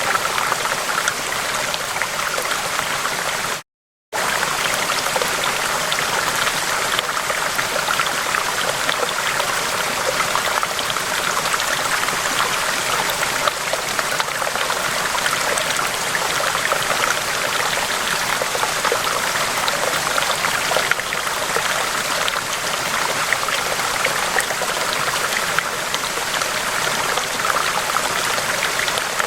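River water rushing steadily, a dense, even flow, broken by a silent gap of under half a second about four seconds in.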